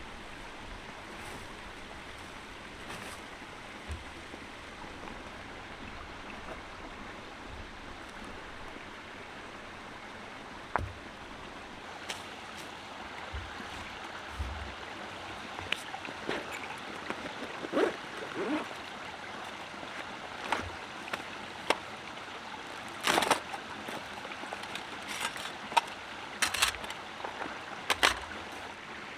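Steady rushing of a stream. About halfway through, scattered clicks, knocks and short scrapes begin, closer and growing more frequent towards the end.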